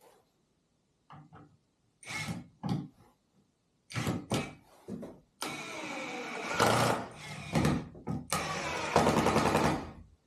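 An engine starting: a few short bursts, then it catches and runs, rising and falling in level before stopping.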